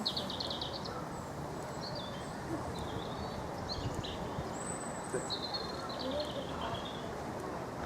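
Small birds chirping and twittering in short repeated phrases over a steady background of outdoor noise and faint voices.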